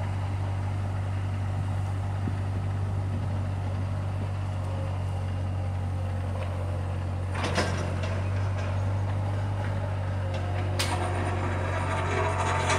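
Bobcat skid-steer engine running steadily under load, with a sharp knock about halfway through and another a few seconds later followed by clattering, as the excavator bucket breaks up and scrapes asphalt.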